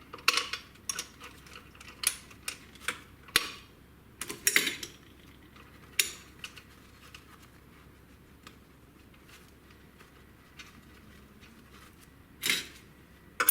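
Irregular sharp metal clinks and knocks of hand tools and parts on the engine as the supercharger is unbolted and freed. They come thick in the first few seconds, then there is a long lull and a couple more clinks near the end.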